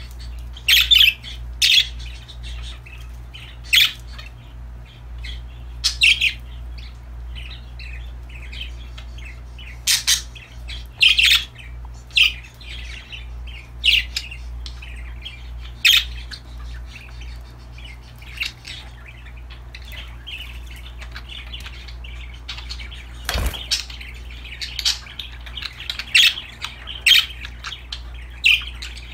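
Pet budgerigars giving short, scattered chirps and squawks every second or two over a steady low hum.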